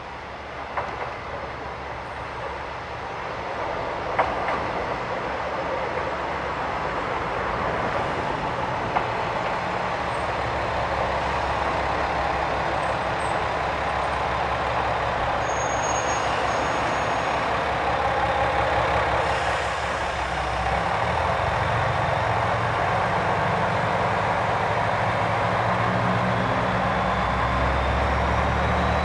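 Diesel train on a non-electrified line, growing steadily louder as it runs, with the low engine note strengthening in the second half and a faint rising whine near the end. A few sharp clicks sound in the first ten seconds.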